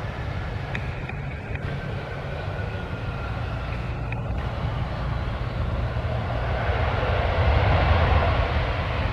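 Aircraft engine noise with a thin whine that slides slowly lower over the first few seconds. The noise swells and grows louder about two-thirds of the way in as the airplane draws closer.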